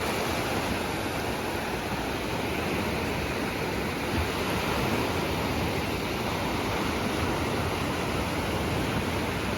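Atlantic Ocean surf washing onto the beach: a steady, unbroken rush of noise.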